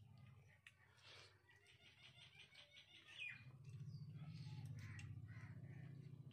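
Near silence with faint bird calls: a quick chattering trill, then a short falling chirp and a few softer calls. A low steady hum comes in about halfway through.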